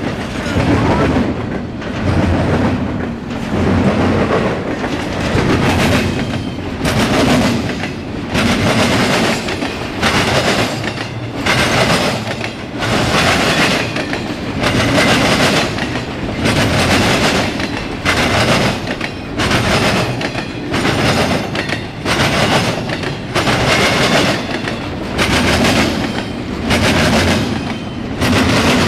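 CSX eastbound intermodal freight train passing. Its wheels clatter over the rail joints in a steady rhythm that swells about every second and a half.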